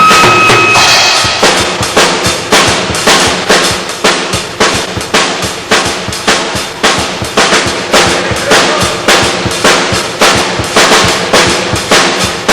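A band's rock passage with a held note ends about a second and a half in, leaving a drum kit played alone in a steady beat of about two hits a second, kick and snare, as the drummer checks the kit during a soundcheck.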